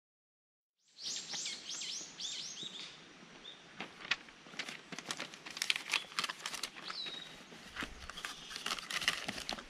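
Silent for about the first second, then a small bird sings a quick run of five or six high, descending chirps. After that comes crinkly rustling and clicking as paper is handled, with a few more scattered bird chirps.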